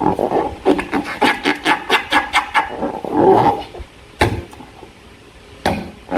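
Slime being squished and worked by hand: a quick run of sticky crackling clicks, about five a second, then a wetter squelch and a few single sharp pops.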